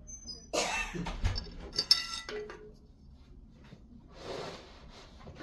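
Metal clanking and clinking, with one bright ringing clink about two seconds in, then a short rushing hiss about four seconds in.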